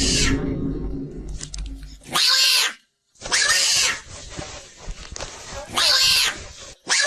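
Cat meowing: three loud, drawn-out meows, between stretches of hissy noise.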